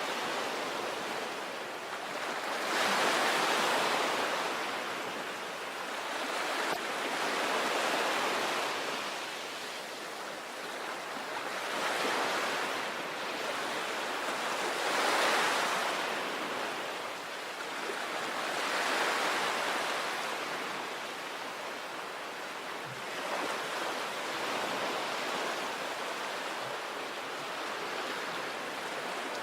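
Sea waves breaking on a beach, the surf swelling and receding about every three to four seconds, about seven times.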